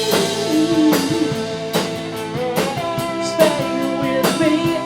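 Band playing a song: guitar over a drum kit, with a drum hit about every second.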